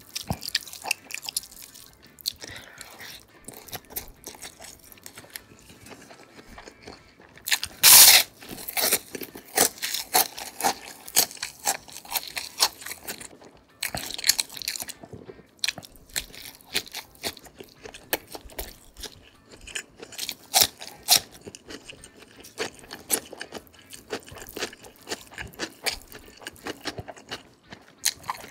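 A person eating close to the microphone: chewing with many sharp crunching bites of crisp food. One very loud crunch comes about eight seconds in.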